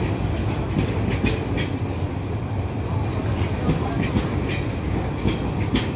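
A train running on the track: a steady low rumble with irregular clacks from the wheels.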